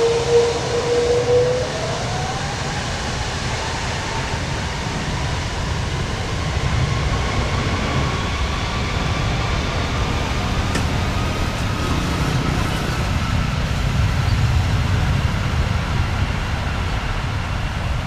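Airliner jet engines spooling up for the takeoff roll: a whine rises slowly in pitch over a steady loud rumble.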